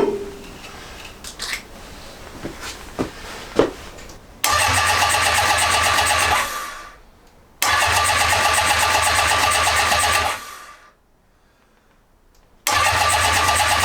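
Electric starter cranking the cold Honda CB750's inline-four engine in three attempts of a few seconds each, starting abruptly and winding down between goes without the engine firing, after a few light clicks. The owner suspects the battery is not fully charged.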